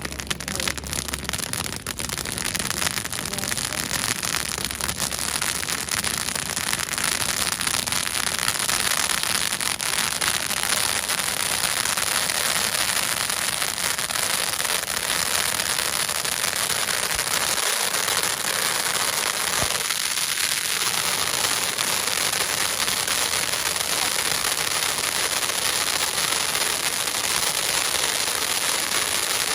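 Fireworks crackling densely and steadily, a continuous fizzing crackle that builds up over the first few seconds.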